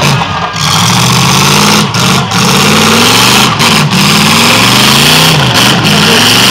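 Demolition derby car engines revving up and down, their pitch rising and falling several times over a steady noisy background.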